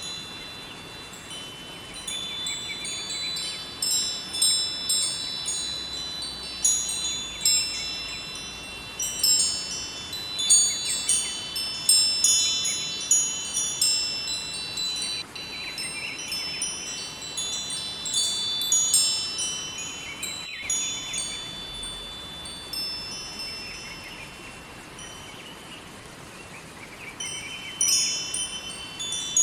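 Wind chimes ringing in irregular clusters of high, overlapping tinkling notes over a steady rush of river water. The chimes are busiest in the first half and again near the end.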